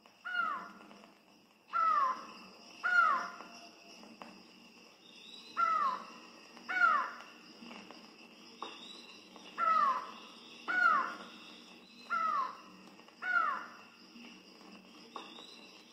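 A bird repeating a short, loud, downward-sliding call about ten times, mostly in pairs about a second apart. A steady high insect drone runs under it.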